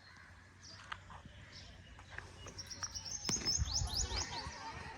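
Small birds chirping, with a quick run of high chirps about halfway through, over a low rumble.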